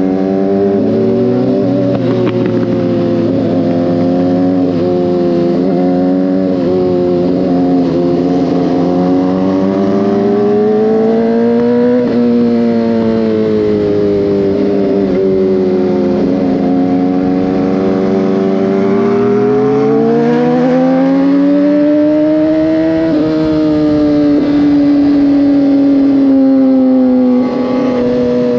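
Motorcycle engine running under way, its pitch climbing slowly as it accelerates and then dropping at shifts or on closing the throttle, about three times.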